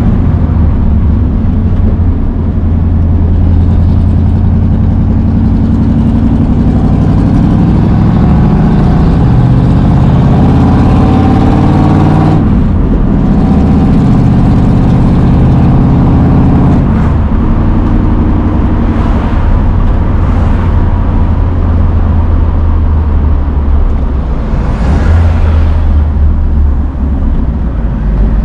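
Carbureted engine of a 1965 Ford Mustang Fastback pulling under acceleration, heard from inside the cabin. Its pitch climbs, drops at a gear change about twelve seconds in, climbs again, changes gear once more around seventeen seconds, then settles into a steady cruise.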